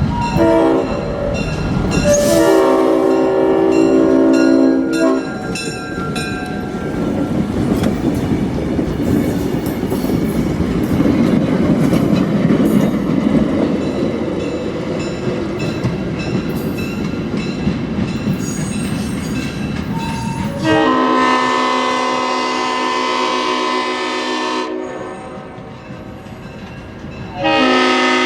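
Leslie RS5T five-chime horn on an EMD GP38-3 diesel locomotive sounding a loud chord that ends about five seconds in. Then the train rumbles and clatters past for about fifteen seconds, followed by a horn blast of about four seconds and another that starts near the end.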